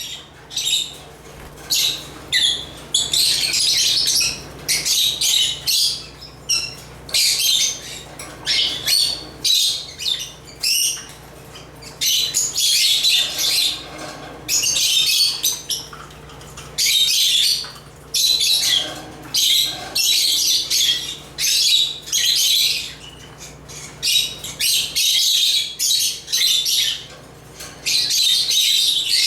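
African lovebirds chirping and squawking in rapid, high-pitched chatter, coming in bouts of a second or two with short breaks between them.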